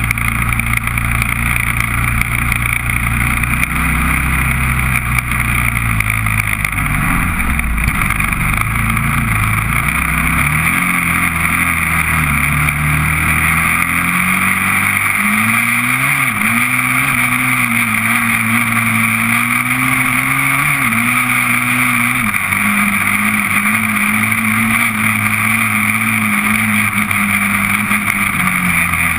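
Honda TRX400EX ATV's single-cylinder four-stroke engine running under way, its pitch rising and falling with the throttle and settling at a higher steady note after the middle, with a steady hiss over it.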